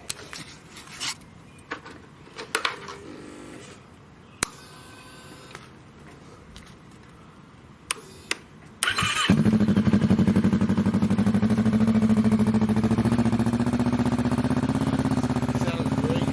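A few clicks and knocks, then about nine seconds in a 2020 Kawasaki Vulcan S's 649 cc parallel-twin engine cranks briefly and starts. It settles into a steady idle through a newly fitted budget aftermarket exhaust, the idle creeping slightly higher.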